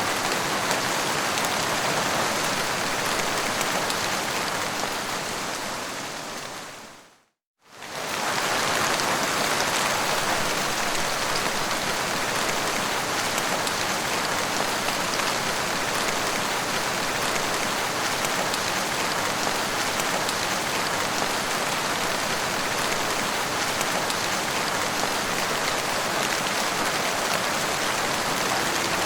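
Steady rain falling on a surface: a dense, even hiss. About seven seconds in it fades out to silence, then fades straight back in within a second, like a loop join in the recording.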